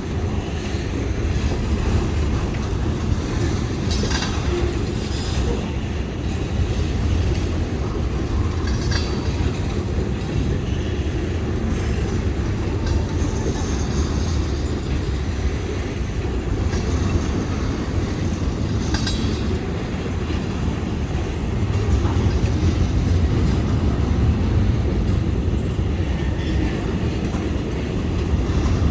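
Freight train rolling past, a steady low rumble of railcars with wheels clacking over rail joints now and then.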